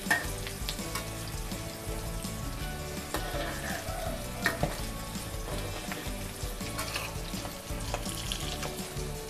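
Egg omelette with canned fish sizzling as it fries in oil in a metal wok, with a metal spatula scraping and tapping against the pan a few times.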